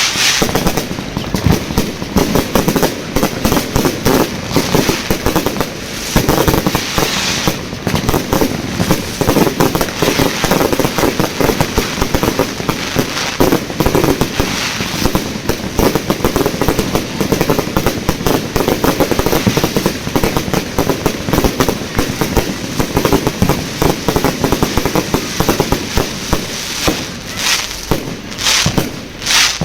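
Fireworks display: a dense, unbroken barrage of bangs and crackling pops, with a few sharper single bangs near the end.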